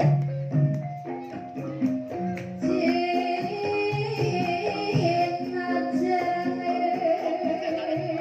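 Javanese gamelan ensemble playing a Banyumasan gending in ebeg style, a steady pattern of struck, ringing metallophone notes, with a singer's voice joining about three seconds in.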